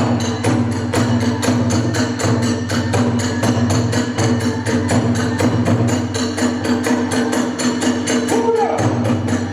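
Kagura festival music: drums and small hand cymbals striking a fast, even beat under a steady held flute line, with a brief sliding flute phrase near the end.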